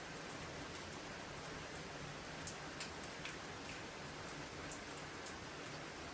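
Steady rain falling through the night, with scattered sharp drops landing close by, several in the middle of the stretch.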